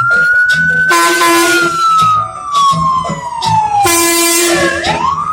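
Siren wailing: its pitch rises, falls slowly over about three seconds, then rises again near the end.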